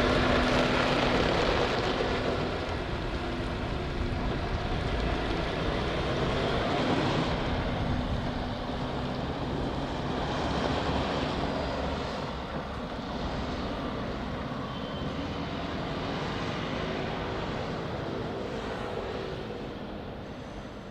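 Scania V8 truck driving away, its engine and tyre noise slowly fading.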